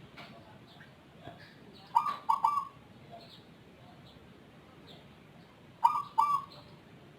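Zebra dove (perkutut) cooing: a short two-part phrase about two seconds in and another about six seconds in. Its song is unusual, unlike that of typical local or Bangkok perkutut.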